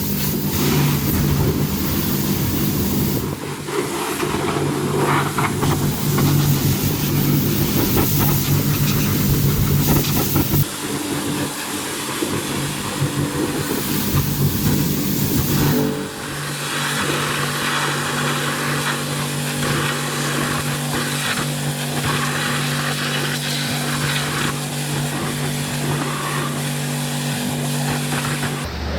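A cleaning machine's motor running steadily, a low hum with a hiss of spray or suction over it, in several segments that change abruptly.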